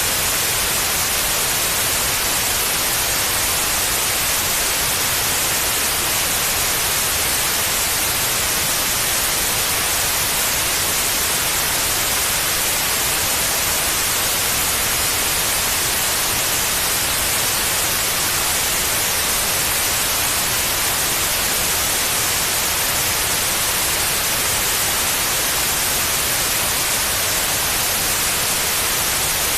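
Steady white noise: an even, unbroken hiss, brightest in the treble, with no change or rhythm.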